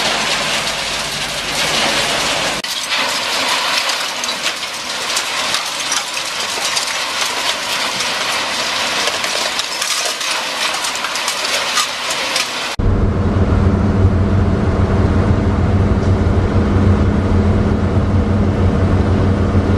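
T5 screening machine running, with material clattering and rattling through the screen in many small sharp clicks. About 13 seconds in the sound cuts abruptly to a steady low machine hum.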